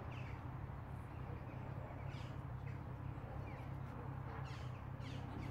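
Wild birds calling: a few short, high notes that fall in pitch, spaced a couple of seconds apart, over a steady low rumble.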